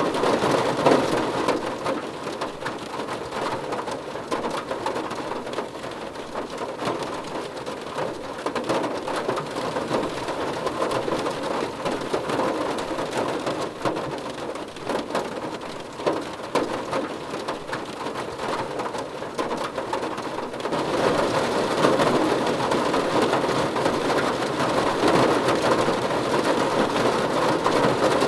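Steady rain falling on a surface, an even hiss of drops that grows heavier about three-quarters of the way through.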